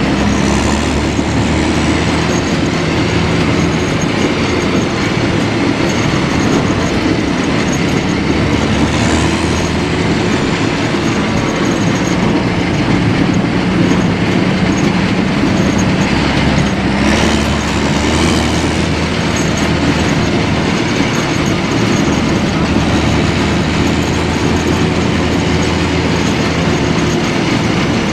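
Heavy military vehicles' diesel engines running hard under load, with a steady metallic clatter, as an M113B tracked carrier strains to tow a bogged Engesa EE-25 6x6 truck out of the mud.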